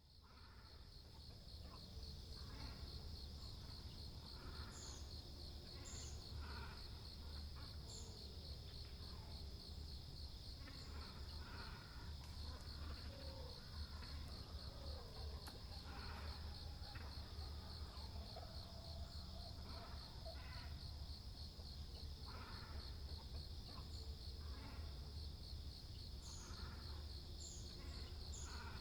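Great cormorants and herons giving short, odd-sounding calls at irregular intervals, over a continuous high-pitched insect trill. A few brief high chirps come near the start and again near the end.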